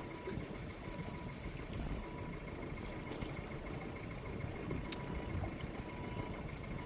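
A sailboat's engine idling steadily with a low rumble while the boat holds position.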